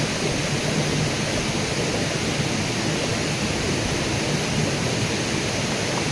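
Steady rushing of water, an even unbroken noise with no single events standing out.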